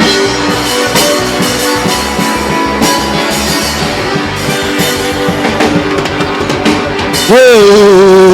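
Live band music with a drum kit beating steadily and sustained guitar or keyboard notes. Near the end a loud voice cries out over it, sliding up and then holding one long, wavering note.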